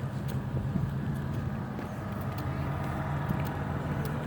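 Car engine running with a steady low rumble, with a few faint clicks over it.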